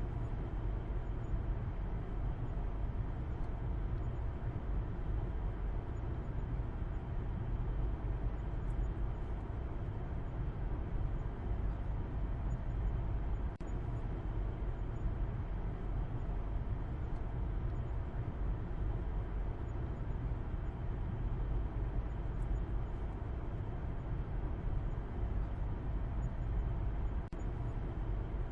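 Steady road noise of a car driving at a constant speed: an even low rumble with a hiss above it and no changes.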